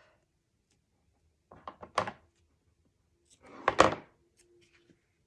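Paper album pages and flaps handled on a tabletop: a few quick taps about a second and a half in, then a louder thunk with a brief rustle near four seconds.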